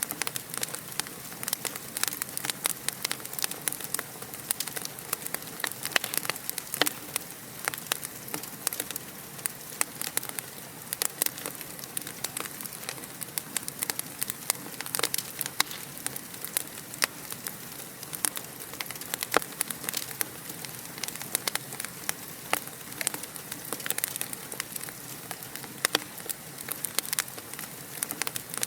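Wood fire in a fireplace crackling steadily, with a dense run of small sharp pops and snaps over a soft hiss.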